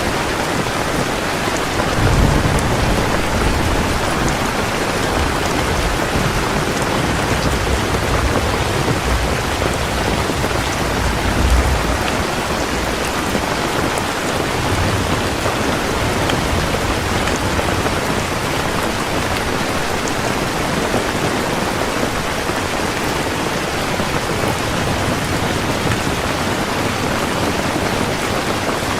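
Heavy rain falling steadily, with low rumbles of thunder about two seconds in and again around eleven seconds.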